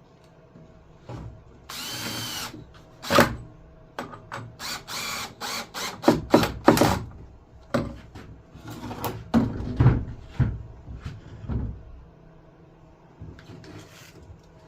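A power drill runs briefly, about two seconds in. It is followed by a long string of sharp knocks and clatters of wood being handled and set down on the saw sled.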